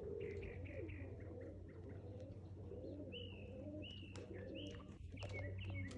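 Pigeons cooing, a low wavering coo repeated over and over, with short high bird chirps over it, mostly in the second half.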